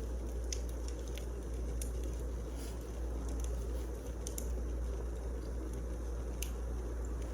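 Wood fire burning: a steady low rush with irregular sharp crackles and pops.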